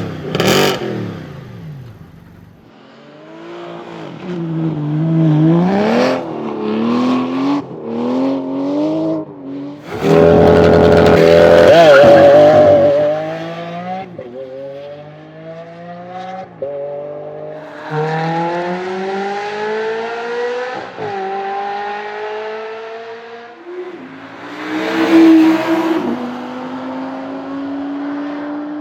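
Supercar engines: one car passes by quickly, then an engine is revved up and down several times. An engine runs at full throttle, very loud, and then accelerates hard through the gears, its pitch climbing and dropping at each upshift about five times.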